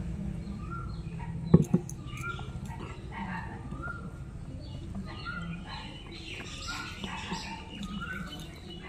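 A bird calling over and over in short chirps, about three every two seconds, with a single sharp knock about a second and a half in.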